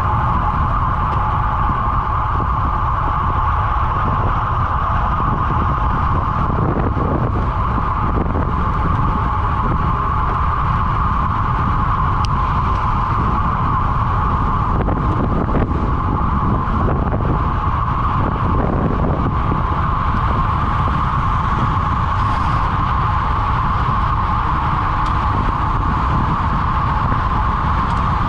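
Wind rushing over the microphone of a camera riding along on a road bike at speed, with a steady high hum underneath that swells and fades slightly.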